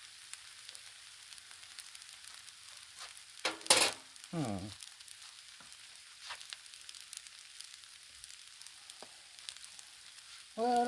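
Red beans, rice and sausage sizzling on a Blackstone flat-top griddle, a steady frying hiss. About three and a half seconds in there is one loud, short noise, then a brief sound falling in pitch.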